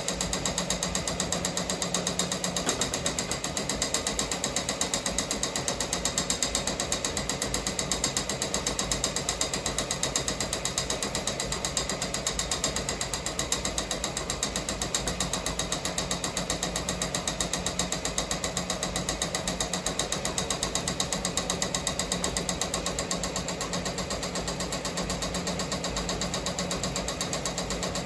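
Ricoma MT-1501 multi-needle embroidery machine stitching: a fast, steady, even clatter of needle strokes that eases slightly near the end.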